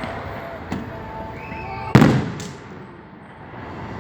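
Aerial fireworks shells bursting: a faint pop a little under a second in, then a loud boom about two seconds in that dies away, with a smaller bang right after it. Music plays faintly underneath.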